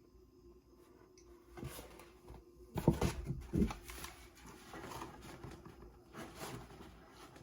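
Plastic model-kit parts being handled: rustling with a few light clacks and knocks, loudest about three seconds in, then dying away.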